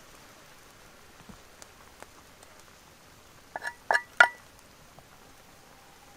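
Cookware clinking: four quick strikes with a short ring, about three and a half seconds in, over a faint patter of small ticks.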